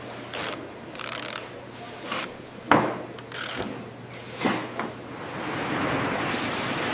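Irregular scraping and rubbing strokes with a sharp knock a little under three seconds in and another about four and a half seconds in, then a steady rushing noise that builds up over the last two seconds.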